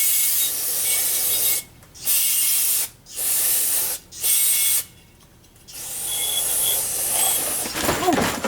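Spray hissing onto carburetor floats to clean them, in five bursts: four short ones, then a longer one that swells near the end.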